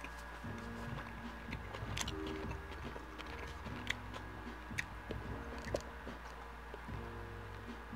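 Close-miked chewing of a bacon cheeseburger: soft wet mouth clicks and smacks scattered through, with no words.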